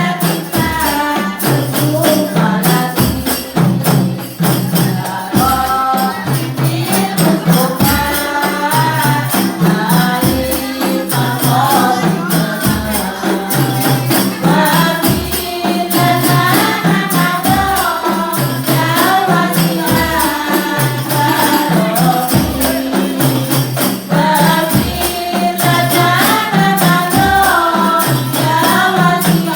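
Hadroh ensemble playing: voices singing over hand-struck frame drums, with steady tambourine jingles and regular deep drum strokes.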